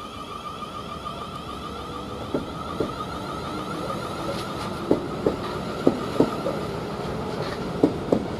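South Western Railway Class 444 electric multiple unit pulling out, its running noise building steadily as it gathers speed. From about two seconds in, its wheels click over the rail joints, often in pairs.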